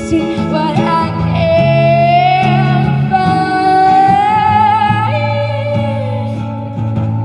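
Singing with acoustic guitar: a voice holds long drawn-out notes, rising about a second in and dropping lower near five seconds, over sustained guitar chords.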